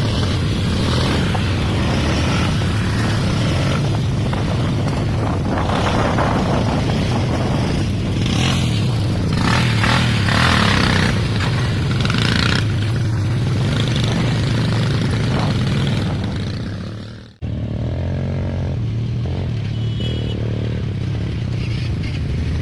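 Quad bike (ATV) engine running steadily while riding, with rattling and scraping over the top. The sound fades out and cuts abruptly back in about seventeen seconds in, then the engine runs on.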